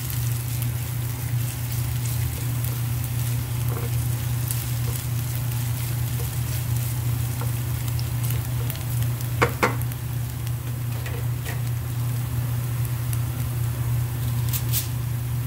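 Julienned ginger sizzling in hot olive oil in a nonstick frying pan, stirred now and then with a spatula, with two sharp clicks about nine and a half seconds in. A steady low hum runs underneath.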